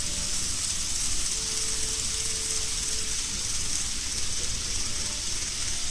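Model freight train running on a layout's track: a steady hiss over a low rumble, with a faint brief tone about a second in.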